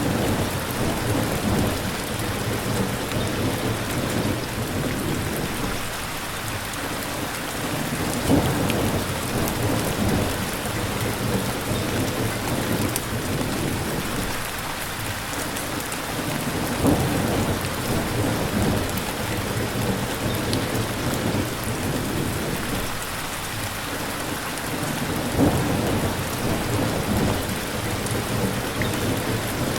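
Steady rain falling, with low rumbles of thunder that swell and fade about every eight to nine seconds.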